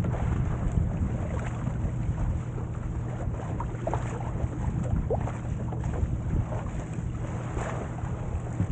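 Wind buffeting the microphone over the rush and splash of water along the hull of a Corsair trimaran under sail.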